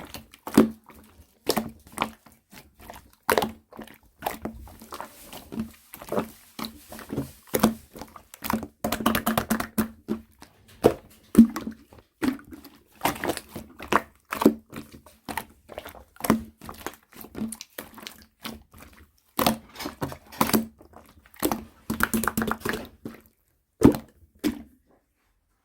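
Clear slime being squeezed and stretched by hand, making irregular sticky clicks and pops in short runs every second or so, with denser crackling stretches. The sounds stop about a second before the end.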